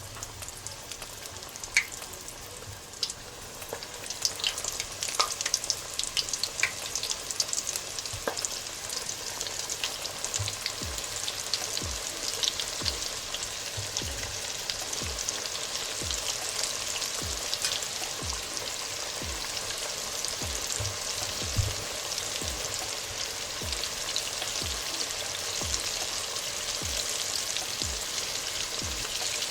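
Flour-coated chicken wings frying in hot oil: a crackling sizzle that starts sparse and builds, about four seconds in, into a dense, steady hiss full of pops as more wings go in.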